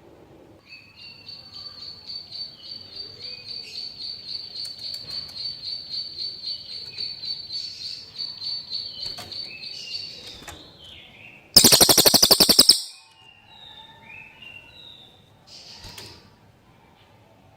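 A cililin bird singing: a long, fast, high trill with lower chirping notes woven in, stopping after about ten seconds. About a second later comes a loud, harsh rattle lasting about a second, the loudest sound here, followed by a few short chirps.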